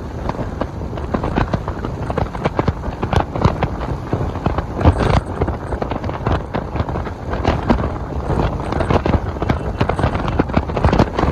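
Strong wind buffeting the microphone during a motorcycle ride: a dense rumble broken by rapid, irregular knocks and crackles.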